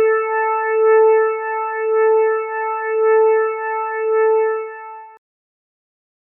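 A synthesized electronic tone holding one steady note with a few fainter overtones above it, its loudness swelling and fading about once a second, cutting off suddenly about five seconds in.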